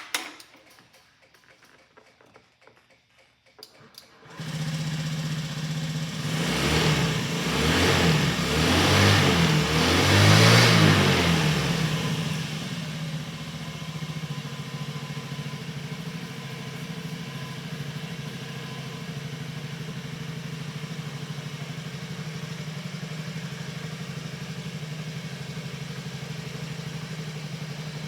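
Honda Zoomer's small single-cylinder four-stroke scooter engine starting: a couple of clicks, then about four seconds in the engine catches, is blipped up and down several times, and settles into a steady idle after about twelve seconds.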